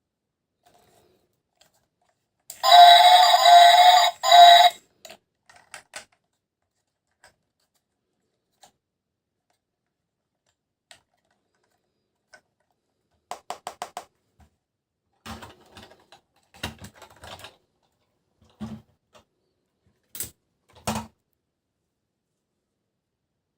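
A loud electronic tone, steady in pitch and lasting about two seconds with a short break near its end, then scattered clicks and light knocks of plastic toys being handled.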